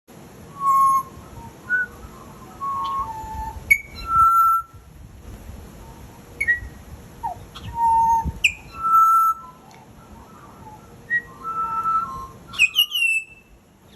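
A pet bird whistling and chirping: short whistled notes broken by sharp sweeping chirps every few seconds.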